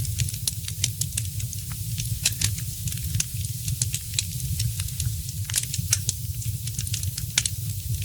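Wood fire in a fireplace crackling: many sharp pops and snaps, several a second, over a steady low rumble.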